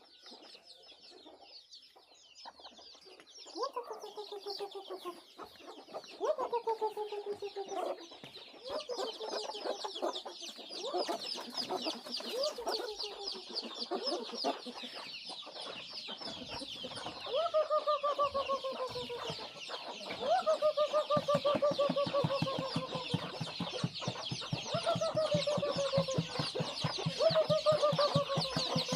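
Chickens calling: a series of long, falling clucks, one after another, over a dense high chirping that fills in from about a third of the way through. A fast low pulsing joins in past the middle.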